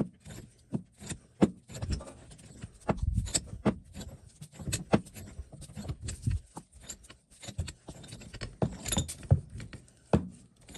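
Metal parts of an old cast-iron bench vise clinking and knocking as it is handled and taken apart, an irregular run of sharp clicks with a few heavier thumps.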